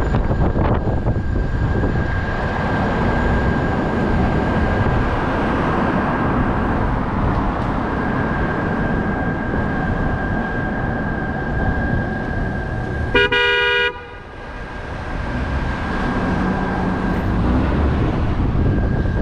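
Steady road and wind noise from a moving car, with a thin steady high tone running through it. About thirteen seconds in comes a single short vehicle horn honk, under a second long.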